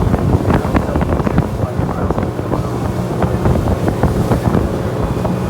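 Tour boat's engine running steadily under way, with wind buffeting the microphone.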